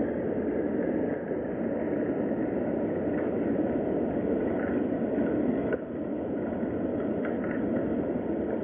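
Steady rain ambience, an even hiss with no break, with a brief small dip in level about six seconds in.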